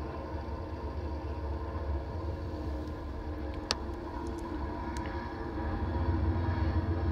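Trains rumbling past: a steady low rumble with some steady mid tones above it, growing louder about six seconds in as the passenger train comes by. A single sharp click a little past halfway, with a few faint ticks after it.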